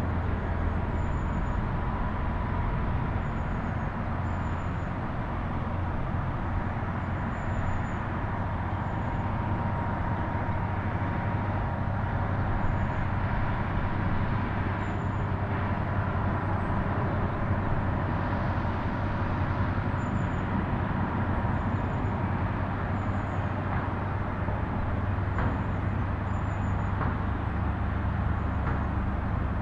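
Steady road traffic noise, an even rumble without breaks, with faint high chirps over it.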